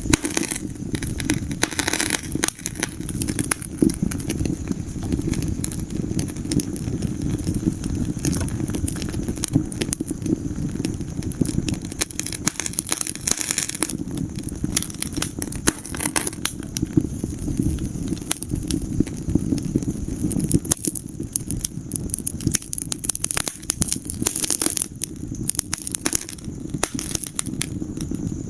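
Wood fire burning in a fireplace: a steady low rumble of the flames with many sharp crackles and pops, in denser clusters now and then.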